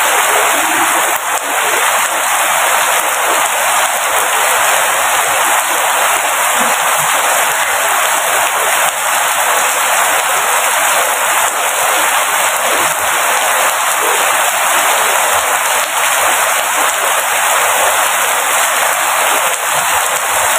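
Steady rain falling, a loud, even hiss with no let-up.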